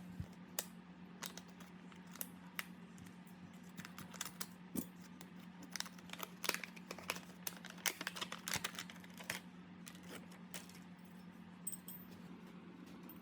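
Irregular light clicks and taps, like small hard parts being handled and set down, more frequent in the middle, over a steady low hum.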